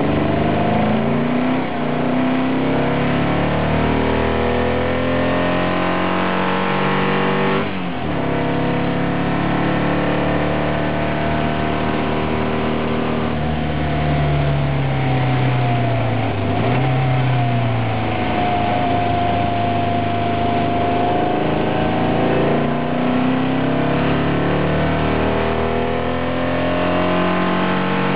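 VW-powered sprint car's engine, heard from inside the car, being driven hard on track. The revs climb steadily, drop at a gear change about eight seconds in, then fall and rise again midway before climbing once more.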